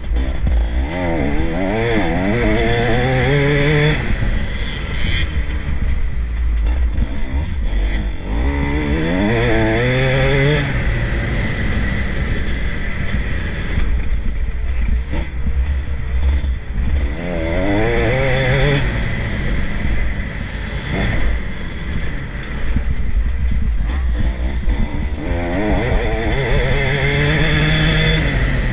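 Motocross bikes racing: engines revving up hard and shifting gear as riders accelerate, in surges about every eight seconds, over a constant low rumble.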